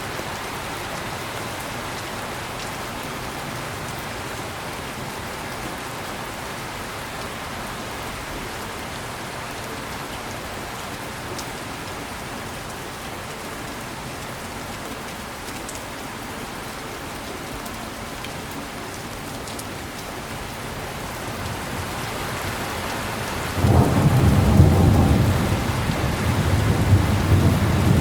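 Heavy rain falling steadily. About 23 seconds in, thunder breaks in with a sudden loud, deep rumble that rolls on and is the loudest sound.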